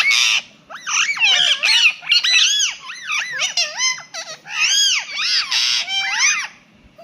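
Indian ringneck parakeet calling in a rapid run of rising-and-falling whistled notes, broken by a few harsh squawks.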